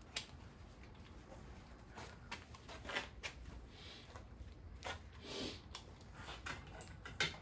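Faint, scattered metallic clicks and taps of sockets and hand tools being handled and fitted on engine bolts, with a couple of brief rustles near the middle.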